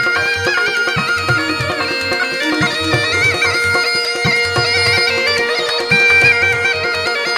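Rajasthani folk instrumental music: a murli (been), a reed pipe, plays a stepping melody over its own steady drone, with regular low drum beats under it.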